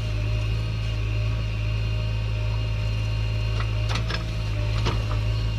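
Heavy diesel engine running steadily with a low hum, with a few sharp knocks about four seconds in.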